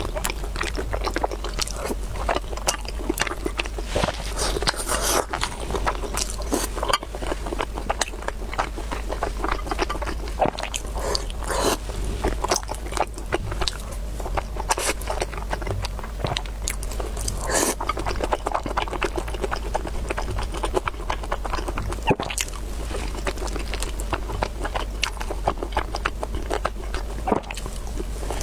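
A person eating close to the microphone: steady chewing with many small wet clicks and crunches. A steady low hum runs underneath.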